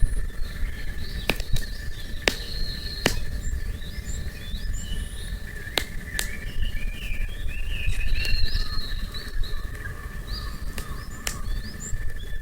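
Wood campfire crackling, with sharp pops every second or so, while small birds chirp over a steady high thin tone.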